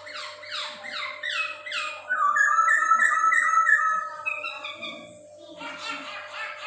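Poksay hongkong (a laughingthrush) singing: first a quick run of downward-slurred whistles, then louder, clear notes repeated and alternating between two pitches. A steady faint hum lies beneath.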